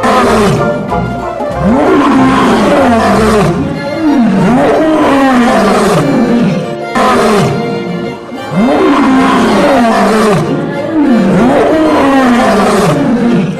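Big cat roaring: a run of loud growling roars, each rising and falling in pitch, over background music. The same run of roars repeats about halfway through.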